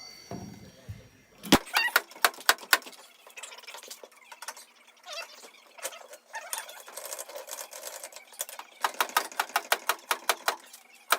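Tools working on metal at a van's front brake: runs of sharp, rapid clicks, with a loud one about a second and a half in and a dense run near the end.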